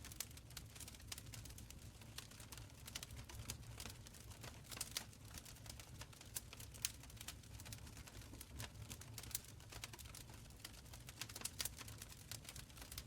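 Wood fire crackling in a stone fireplace: a steady run of small, irregular pops and snaps over a soft low rumble of the flames.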